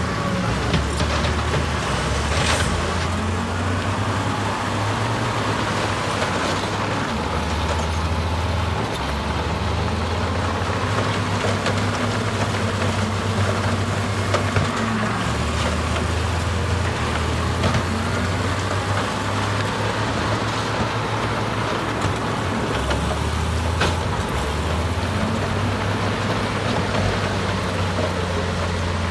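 Diesel engines of heavy earthmoving machinery, a bulldozer and dump trucks, running steadily with a deep rumble.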